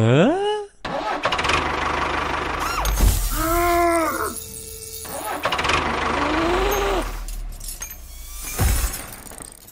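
Tractor engine running with a steady low rumble, overlaid by a few brief swooping tones: one dips and rises at the start, one arches up and down about three and a half seconds in, and one rises near seven seconds.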